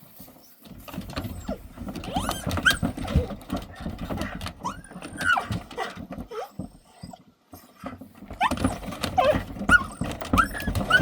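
Bird dogs whining and yelping in excitement, short rising-and-falling cries in clusters, with scattered knocks and scuffling underneath.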